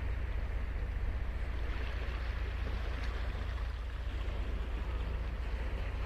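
Ocean surf washing on the beach: a steady wash of breaking waves over a deep low rumble, swelling slightly a couple of seconds in.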